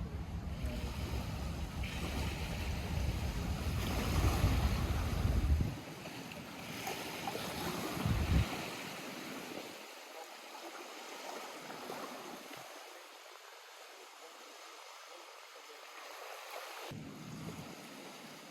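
Small waves lapping at a lakeshore, heard as a steady wash of water noise. Wind buffets the microphone with a heavy low rumble for the first six seconds or so, then drops off suddenly; the water goes on more softly.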